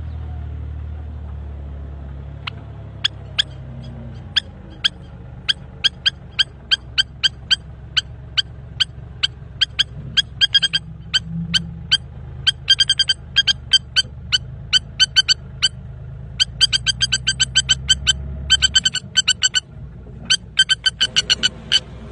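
A bird giving repeated short, sharp alarm calls, spaced at first and then coming faster in quick runs, typical of a parent bird defending its nest of eggs. A steady low rumble runs underneath.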